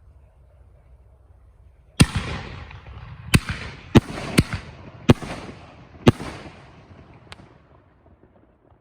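Consumer aerial fireworks going off: a run of about seven sharp bangs starting about two seconds in and spread over some five seconds, each trailed by a hiss, the last one fainter.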